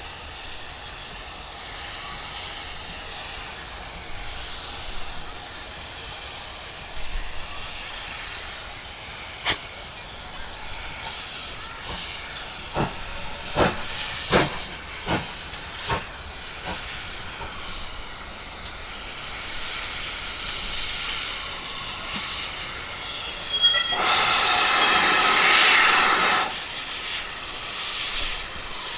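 Train passing over the rails, its wheels clicking over rail joints in a quick run of knocks. About 24 seconds in comes a brief high tone, then a loud burst of hiss lasting about two and a half seconds.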